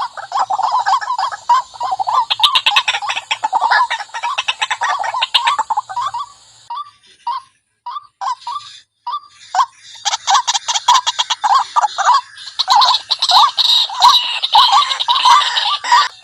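White-breasted waterhen calling: fast runs of harsh, repeated notes. About seven seconds in, the calling thins to scattered single notes for about three seconds, then picks up again.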